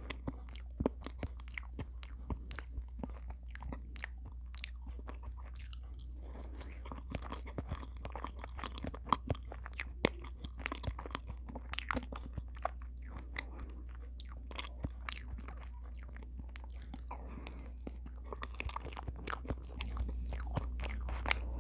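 Close-miked mouth sounds of someone eating soft, creamy cheesecake: wet chewing with many quick sharp clicks of lips and tongue, over a low steady hum.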